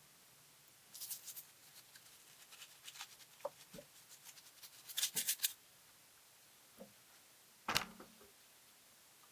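Light handling noise: a scatter of small clicks and rustles in two clusters, about a second in and around five seconds in, then one sharper knock near the end.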